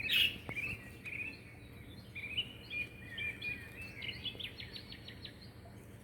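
Baby birds chirping over and over in short high cheeps, with a quick run of short chirps about four seconds in.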